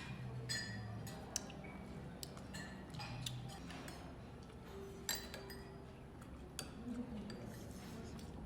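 Cutlery and tableware clinking lightly, with a scatter of separate sharp strikes that ring briefly, over a faint steady hum.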